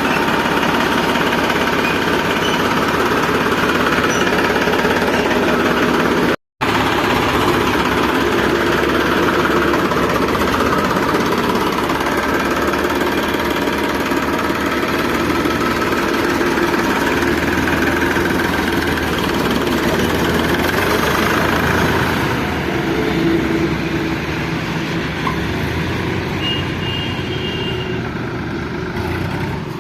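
Massey Ferguson tractor's diesel engine running steadily. The sound cuts out for a moment about six seconds in, then carries on a little quieter in the last few seconds.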